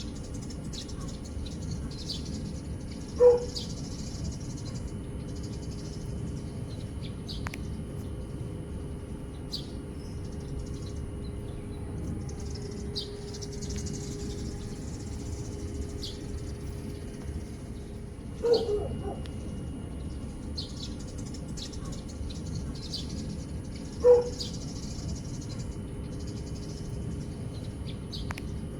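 A dog barks three times, single short barks spread far apart, which are the loudest sounds. Scattered short bird chirps run between them over a steady high-pitched tone and low outdoor background noise.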